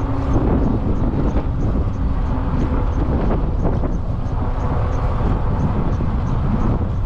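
Wind buffeting the microphone with steady road and tyre rumble from a moving electric bike. A faint high tick repeats about twice a second.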